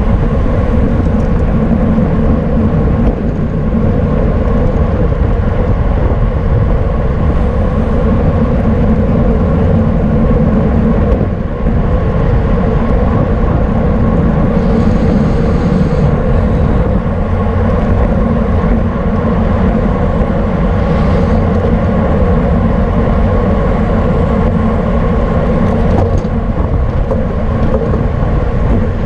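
Loud, steady wind rush and rumble on a bicycle-mounted camera microphone, riding at race speed in a criterium pack.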